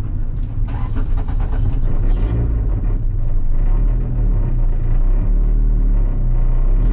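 Honda Civic engine and road noise heard from inside the cabin while driving, a steady low drone that holds a fairly even pitch from about two seconds in. The engine is around 3,000 rpm, where the untreated cabin resonates and vibrates.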